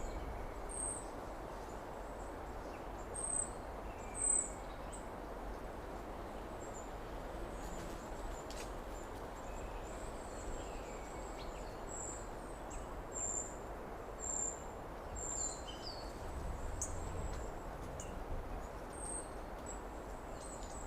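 Outdoor summer ambience: a steady low rushing background hiss with short, very high bird chirps scattered through it, thickest in the middle stretch, plus a few brief falling whistles.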